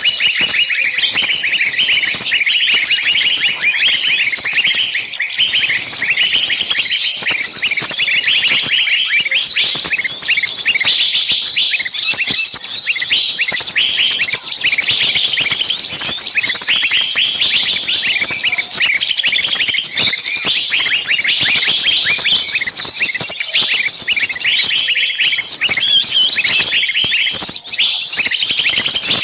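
Bird-lure recording of many small birds calling at once: a loud, dense, unbroken chatter of shrill, rapid alarm and distress calls, the 'screaming, pinched' calls played to draw small birds in.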